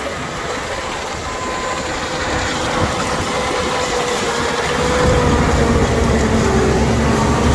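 Corn-harvesting farm machine running: a steady engine drone with a held whining tone, growing louder about five seconds in.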